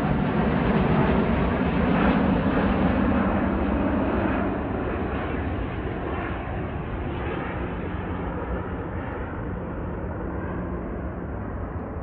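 Jet airliner on its landing approach passing by, its engine noise loud at first and fading away from about four seconds in.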